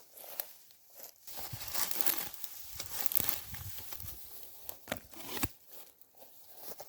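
Hand sickle cutting through fresh green grass: a series of rough tearing, rustling swipes with short pauses between them.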